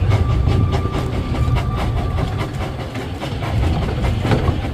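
Narrow-gauge steam train running, heard riding aboard: a steady low rumble with irregular clicking of wheels over the rail joints. A faint thin whine sounds for about the first two seconds.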